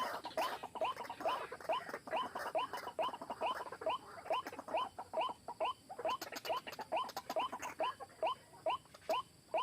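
White-breasted waterhen's kru-ak call: a monotonous, even series of short rising notes, about three a second.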